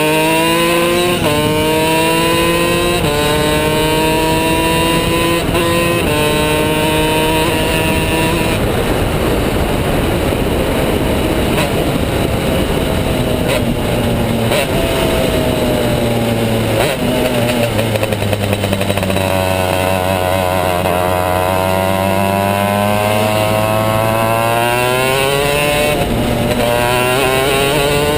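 Two-stroke superkart engine at speed. Its pitch climbs in steps, dropping back sharply several times in the first few seconds as it shifts up through the gears. It then falls and runs lower through the middle, and rises again near the end as it accelerates.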